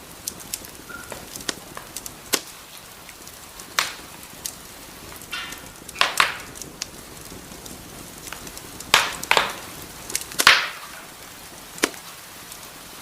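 Wood fire burning in a fireplace, crackling with irregular sharp pops over a soft steady hiss; a few louder snaps come in the middle and latter part.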